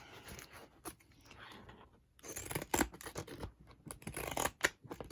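Scissors snipping in a run of short, irregular cuts, with a brief pause about two seconds in.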